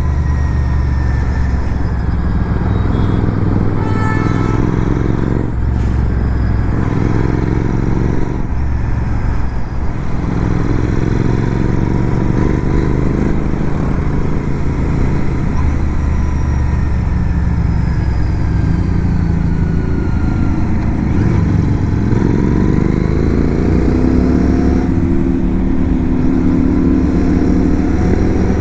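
Motorcycle engine running under way, its pitch rising and dropping several times as the rider accelerates and shifts through the gears.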